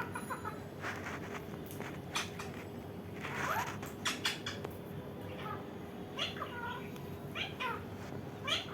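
Indian ringneck parrot giving a series of short calls that slide up and down in pitch, some of them meow-like.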